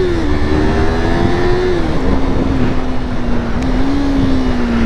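Motorcycle engine running under way. Its note climbs slightly, drops to a lower, steady note about two seconds in as the rider eases off or shifts, and holds there over a constant rushing noise.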